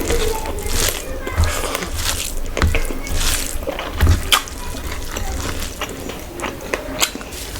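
Close-up wet eating sounds: chewing and squelching of rice and curry gravy, with repeated short clicks and smacks.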